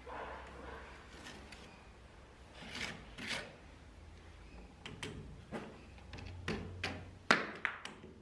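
Intermittent scraping and rubbing of hand tools on a hard surface, with several sharp knocks, the loudest about seven seconds in.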